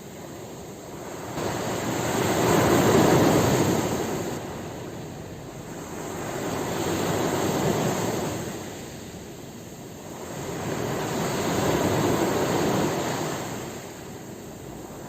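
Ocean waves breaking and washing up the shore, in three slow surges that swell and fade, about one every four to five seconds.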